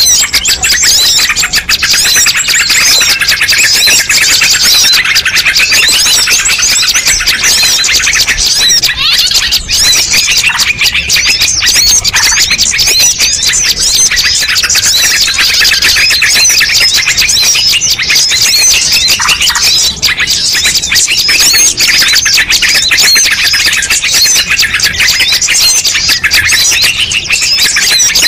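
Dense, loud chorus of many small songbirds chirping and twittering at once, a mixed-species bird-lure (pikat) call recording. The quick high notes overlap without a break.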